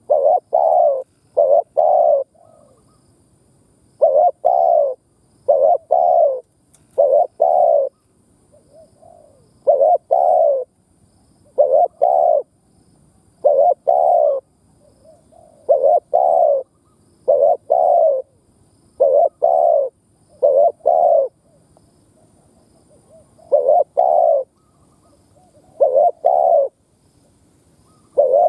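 Spotted dove cooing in short repeated phrases of two or three deep coos, each phrase about a second long and coming every couple of seconds, with a few faint coos in some of the gaps.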